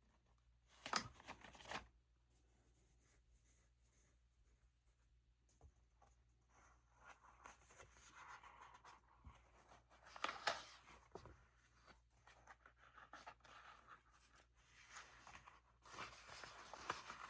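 Faint scissors cutting paper, with light paper rustling; a few sharp snips about a second in and again around ten seconds in.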